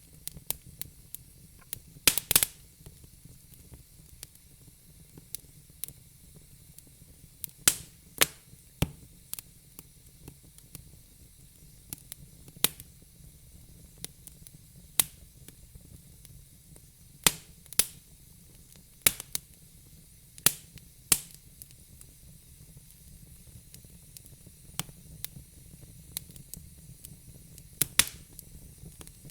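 Fire crackling: sharp, irregular pops and snaps, several louder cracks among many small ticks, over a faint steady hiss.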